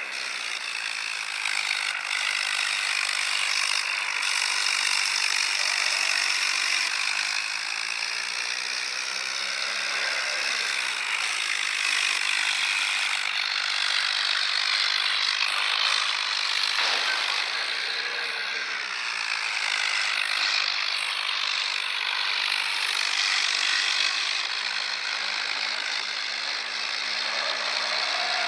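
Tractor engines running hard under load in a tractor tug-of-war, a loud, steady, noisy drone whose pitch slowly rises and falls.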